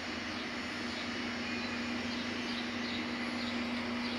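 ICE 3 high-speed electric train running with a steady hum and a constant low tone. Faint bird chirps come through over it.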